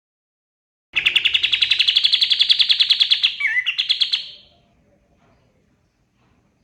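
Kapas tembak singing: after a second of silence, a fast run of rapid, evenly repeated high notes, about ten a second, lasting some three seconds, with a short down-slurred note near the end before it fades out.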